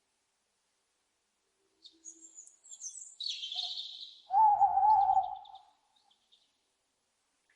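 Owl calls. After a short silence, a few high chirps lead into a rasping high screech. About four and a half seconds in comes a louder, wavering, mid-pitched call lasting about a second, trailed by faint high ticks.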